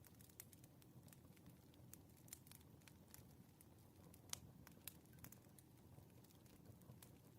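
Wood fire crackling faintly, with a low steady rumble and irregular sharp pops; the loudest pop comes about four and a half seconds in.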